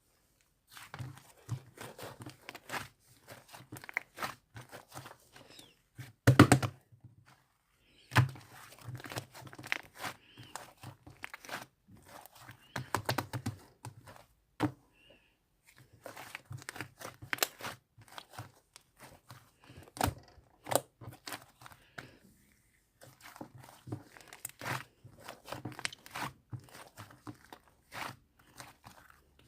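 Slime being squished and stretched by hand, giving irregular crackling clicks and pops with short pauses between handfuls. The loudest burst comes about six seconds in.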